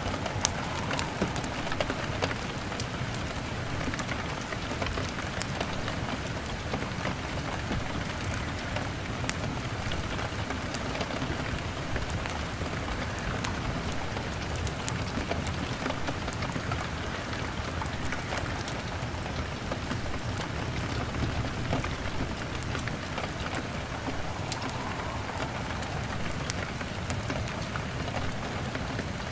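Steady rain pattering on a window pane, with scattered sharp crackles and ticks from a wood fire throughout.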